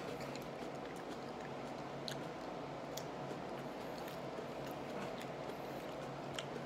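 A person chewing a whole red chile pepper with the mouth closed: faint, scattered small clicks and squishes over a steady low hum.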